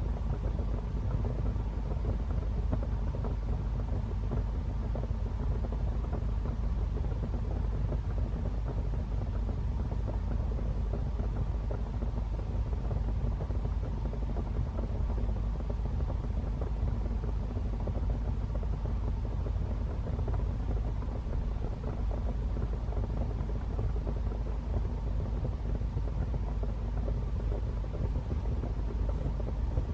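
Wood fire burning in a fireplace, a steady low rumbling roar without distinct pops.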